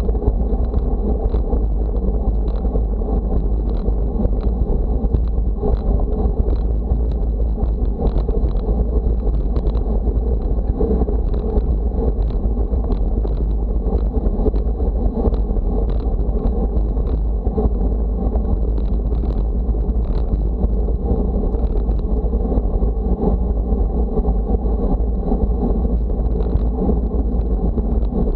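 Steady wind buffeting the microphone, a continuous low rumble with a haze of road noise from moving along, and a faint steady high whine throughout.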